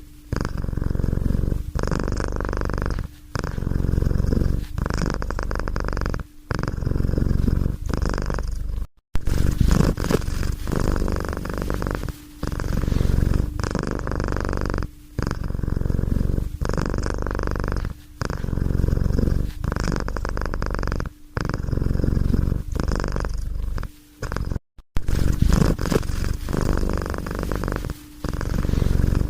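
Domestic cat purring close up, a continuous rumble in a steady rhythm, each breath broken by a brief pause every second or two.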